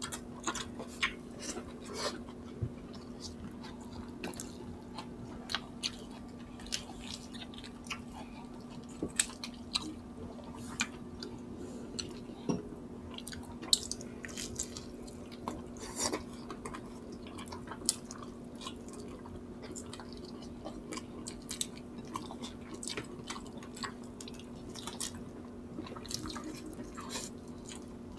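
Close-miked chewing and wet mouth sounds of two people eating boiled native chicken and rice with their hands, with frequent short lip smacks and clicks. A steady low hum runs underneath.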